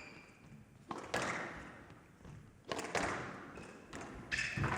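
Squash ball being struck back and forth in a rally: three sharp racket-and-wall thwacks about a second and a half apart, each ringing briefly in the glass court, with a short shoe squeak on the court floor near the end.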